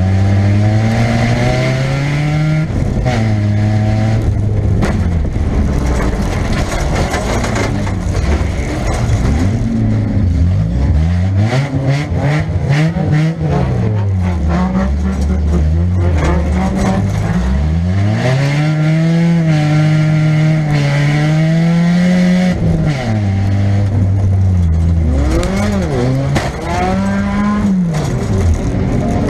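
Nissan Pulsar's 1.8 four-cylinder engine heard from inside the car, revving up and falling back again and again as the driver accelerates, shifts and changes direction. A run of knocks and clatter comes through in the middle, from car-body hits and loose metal in the derby.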